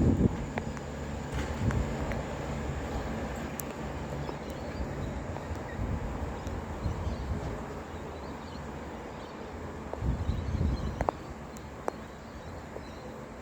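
A diesel passenger train pulling away and fading into the distance, its low rumble dying down over the first couple of seconds, over a steady hiss of rain. A gust of wind buffets the microphone about ten seconds in.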